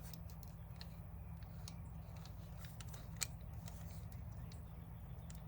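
Light clicks and handling of plastic drill parts being fitted together, sparse and faint, with one sharper click about three seconds in, over a steady low hum.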